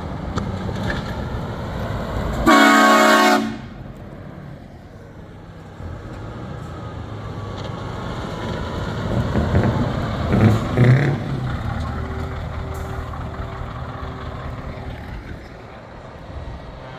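A truck's air horn blasts once for about a second, loud and rich in tones, over the rumble of heavy truck engines driving past; the engine sound swells about ten seconds in as more trucks pass.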